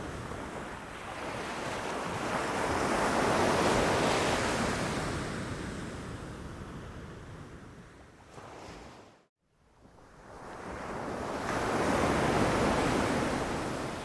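Ocean waves breaking against rocks: two swells of surf that build and fade, with a brief dropout to silence about two-thirds of the way through.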